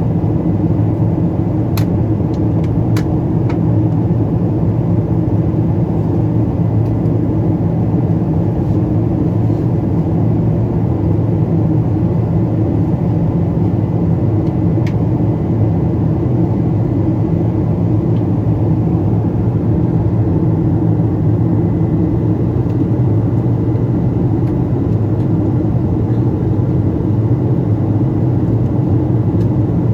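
Steady cabin rumble inside a Boeing 777-200 in flight on descent: engine and airflow noise, with a few faint clicks about two to three seconds in.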